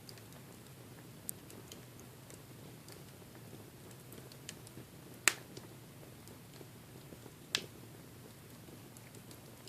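Wood fire crackling in a fireplace: scattered small crackles with two sharper pops, about five and seven and a half seconds in, over a low steady rumble.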